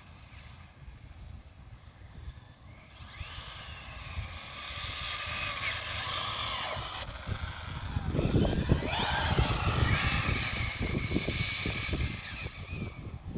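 Hobbytech NXT RC buggy running around a lot, its high motor whine rising and falling with the throttle. It grows louder, is loudest about two-thirds of the way through as it passes close, then fades a little, with wind rumbling on the microphone.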